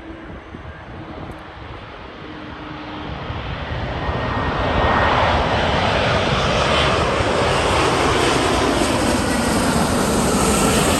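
Jet noise from a landing Airbus A350-1041's Rolls-Royce Trent XWB engines: a broad rushing roar that grows louder over about three seconds as the airliner nears, then holds loud and steady.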